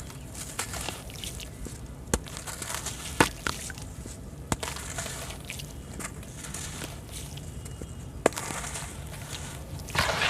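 Crunchy sand-cement clumps crumbling and cracking, with a faint crackle between sharp snaps about 2, 3, 4.5 and 8 seconds in. A louder, denser crumbling starts near the end.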